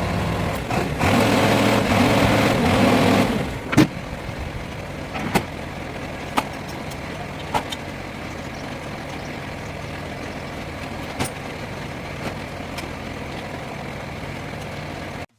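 Heavy lorry's diesel engine running steadily, with a louder rush of noise for a couple of seconds about a second in, then a sharp knock. After that the engine runs on more quietly with a few scattered clicks and knocks, then the sound cuts off suddenly near the end.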